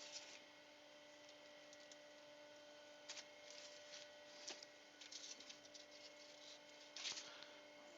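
Near silence: workshop room tone with a faint steady hum and a few faint light clicks and rustles, the clearest about seven seconds in.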